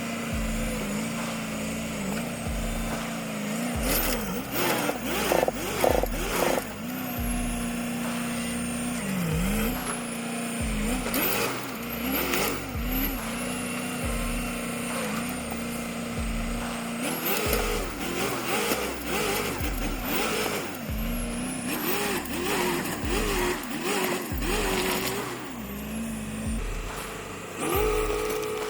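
A heavy machine's engine running and working, under background music with a steady low thump about once a second. Bursts of clatter come around four to six seconds in and again around eleven seconds.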